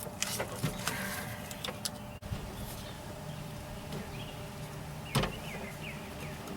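Scattered small clicks and taps of door-latch cable hardware being handled, with a sharper click about five seconds in, over a faint steady hum.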